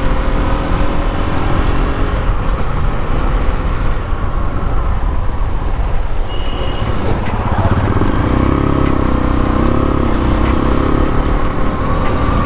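Motorcycle under way on a road, its engine running steadily and slowly rising in pitch over a heavy rumble of road noise.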